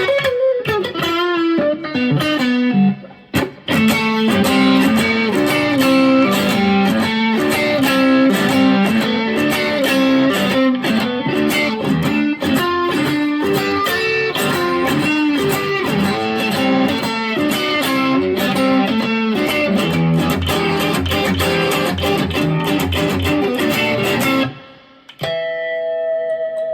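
Electric guitar, a Squier Affinity Stratocaster on its single-coil pickups, played in a fast, continuous run of picked single notes. A short break comes about three seconds in, and near the end the playing stops briefly before a held chord rings out.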